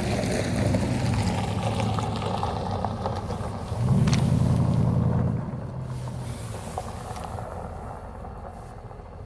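Diesel locomotive engine rumbling at low speed during switching. It swells louder for about a second and a half near the middle, then slowly fades.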